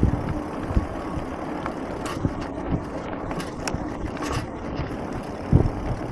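Electric fat bike riding along a park path: a steady rumble from the wide tyres with many irregular small knocks and rattles over bumps, and a few brief hisses partway through.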